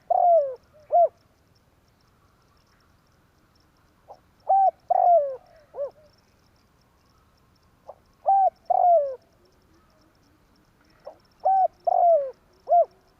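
Spotted dove (tekukur) cooing: four phrases of its call, about four seconds apart. Each phrase is a short lead-in note followed by three clear coos, and the middle coo is the longest, sliding down in pitch.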